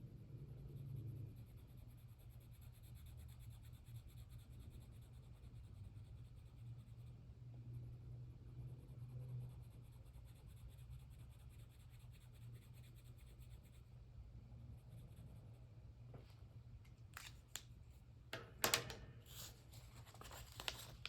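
Quiet desk crafting on paper: a low steady room hum, then small scrapes and clicks of paper and tools in the last few seconds, with one louder knock near the end.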